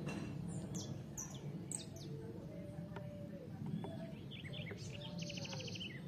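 Small songbirds calling: several quick, high, downward-sweeping chirps, then a short burst of descending notes and a rapid buzzy trill near the end, over a steady low outdoor rumble.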